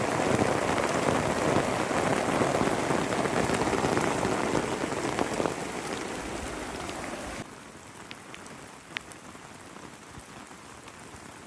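Heavy rain falling steadily; a little over seven seconds in it drops abruptly to quieter rain with scattered individual drops.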